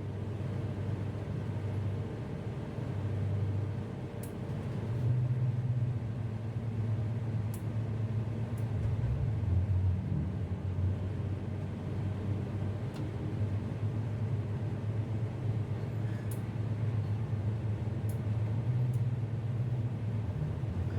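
Tugboat's diesel engines running under load as a steady low drone, swelling about five seconds in and again around the middle while the tow is taken up.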